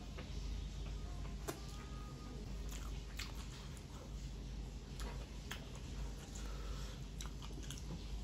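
A person chewing a mouthful of rice and curry eaten by hand, close to the microphone, with scattered sharp wet clicks from the mouth.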